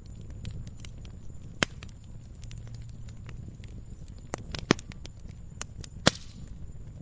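Firewood burning and crackling: a steady low rumble of flames with irregular sharp pops and snaps, the loudest about a second and a half in, near five seconds and about six seconds in.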